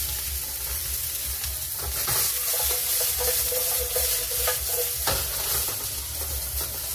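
Shrimp, vegetables and dumplings sizzling in a hot wok as they are tossed and stirred with a spatula, with a short scrape or knock about five seconds in.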